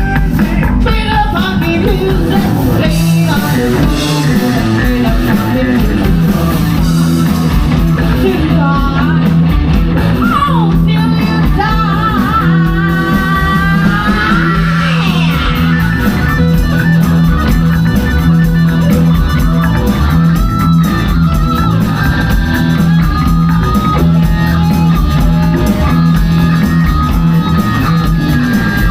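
Live rock band playing loud and continuously, with electric guitar and bass prominent and sung or bending melodic lines over them.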